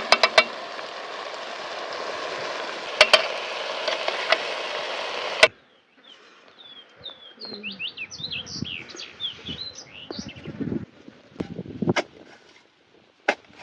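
A steady hiss with a few sharp clicks that cuts off suddenly about five and a half seconds in, followed by birds chirping, a quick run of short calls, with scattered low knocks.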